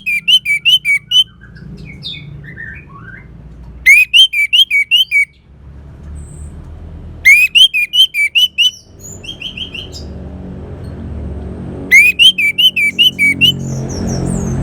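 Orange-headed thrush singing in four loud bursts a few seconds apart. Each burst opens with a rising note and runs into a quick string of repeated chirping notes. A low steady rumble sits underneath.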